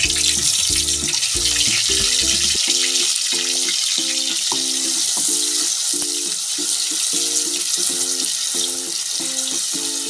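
Wet ground green masala paste sizzling hard in hot oil in an aluminium pot as it is stirred. Background music with a repeating tune plays underneath, and its bass drops out about two and a half seconds in.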